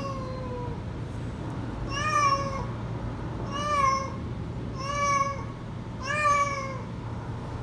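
Calico cat meowing over and over: the end of one drawn-out meow, then four short meows about a second and a half apart, each rising then falling in pitch.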